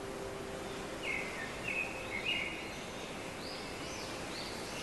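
Steady outdoor background hiss with birds chirping: a run of short chirps about a second in, and a few rising-and-falling calls near the end.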